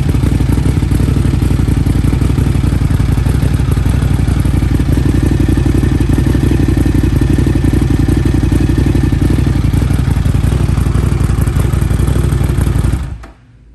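Buell XB9R's air-cooled V-twin engine running steadily, then switched off near the end, the sound cutting out abruptly.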